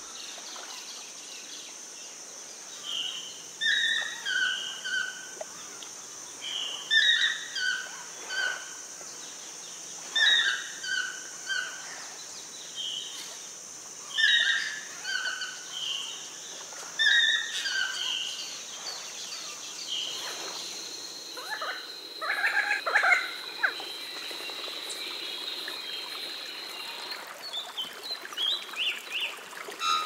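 A forest songbird repeating a short phrase of several quick whistled notes about every three to four seconds, over a steady high insect buzz that stops about two-thirds of the way through. Near the end a different, busier run of bird calls takes over.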